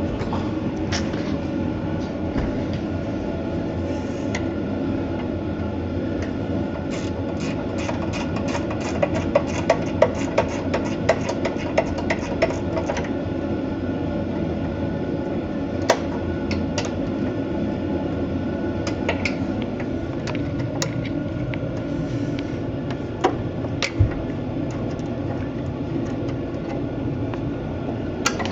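Hand tools clicking and knocking on a boat engine's bell housing, with a run of rapid clicks for several seconds in the middle and a couple of single sharp knocks later, over a steady mechanical hum.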